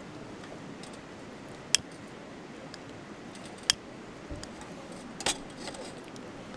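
Wood fire crackling: two sharp pops about two seconds apart, then a brief burst of crackle near the end, with a few faint ticks over steady background noise.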